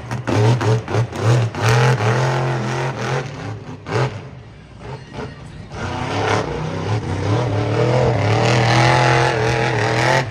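Monster truck's supercharged V8 revving hard, its pitch rising and falling over and over. It drops off about four seconds in, then climbs back and holds at high revs.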